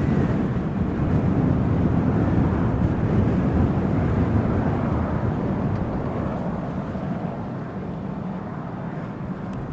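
Airliner engines rumbling as the aircraft passes, loudest at the start and slowly fading away.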